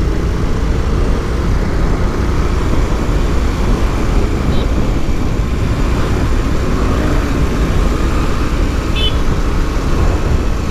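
Steady rumble of riding a motorcycle through city traffic: wind rush and engine drone, with road traffic around. Two short high chirps cut through, about four and nine seconds in.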